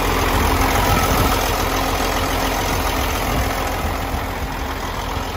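Semi truck's diesel engine running under a steady loud rushing noise.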